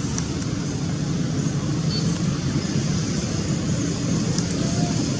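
Steady low rumble of background noise, even in level throughout, with no distinct calls or impacts.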